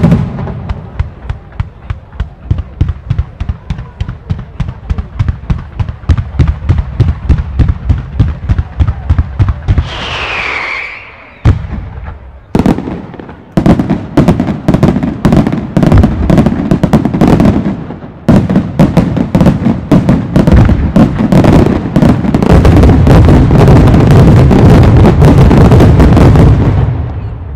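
Fireworks display: rapid explosions at about four a second, a brief high whistle about ten seconds in, then a dense, almost unbroken barrage of bangs and crackling that peaks near the end.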